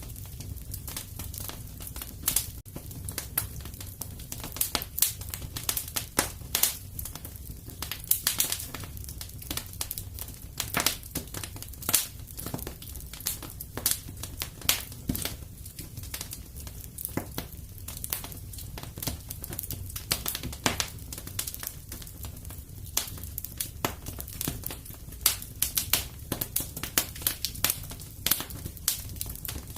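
Wood fire crackling steadily, with frequent irregular pops and snaps over a low rumble.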